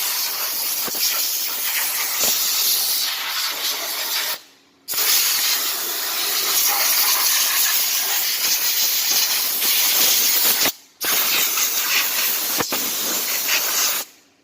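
Pressure washer jet spraying with a steady loud hiss, cut off sharply twice by brief releases of the trigger, then stopping near the end.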